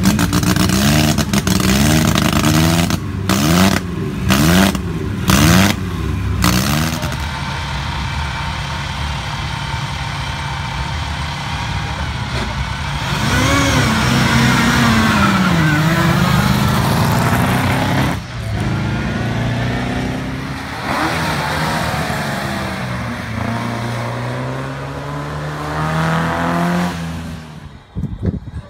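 Vintage racing car engines: one revved in quick blips of the throttle, then a car pulling away under power, its engine note climbing steadily as it accelerates.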